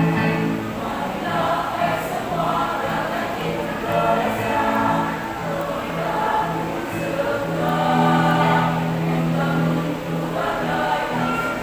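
A women's choir singing in unison over instrumental accompaniment, with a repeated low note pattern underneath.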